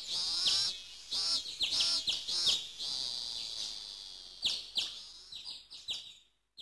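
Several birds chirping and calling, with quick downward-sweeping chirps and warbling calls over a steady high hiss, fading out near the end.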